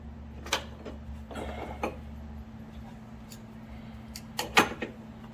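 Hand tools working a nylock nut onto a rear spring shackle bolt: a few sharp metal clicks and a short scrape, the loudest click about four and a half seconds in, over a steady low hum.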